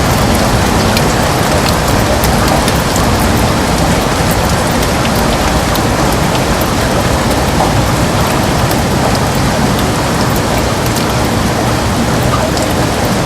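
Heavy rain falling steadily on a window: a dense, even hiss with many small, sharp drop taps.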